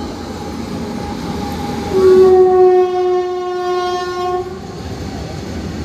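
Long freight train rolling past with a steady rumble of wagons on the rails. About two seconds in, a locomotive's horn sounds one long blast of roughly two and a half seconds.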